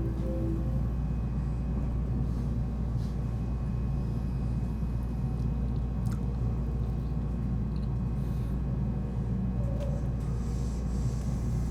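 Steady low rumble of a JR West Special Rapid electric train running along the line, heard from inside the train, with a constant low hum and a few faint ticks; a pitched tone dies away about half a second in.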